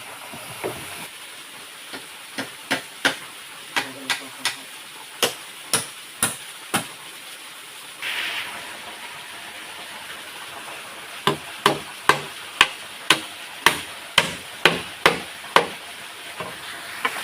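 Chopping blows on wood: sharp knocks in two runs, about ten uneven strokes, a pause, then about a dozen quicker strokes at roughly two a second. Under them runs the steady rush of a waterfall.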